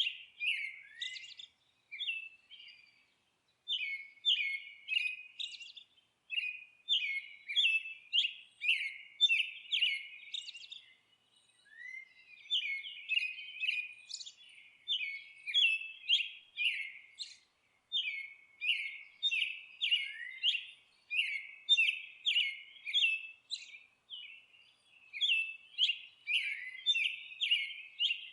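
A songbird singing: quick, clear chirping notes in short repeated phrases, with brief pauses between the phrases.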